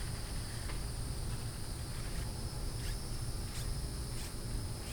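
Steady high-pitched chirring of insects, with a low rumble underneath and a few faint clicks.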